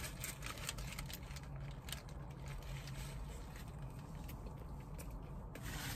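Faint close-up chewing of a mouthful of burger, with scattered soft clicks and small rustles, over a faint steady low hum.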